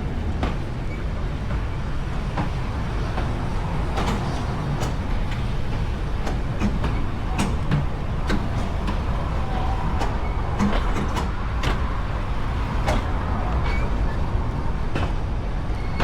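A moving railway carriage: a steady low rumble with scattered sharp clicks and knocks.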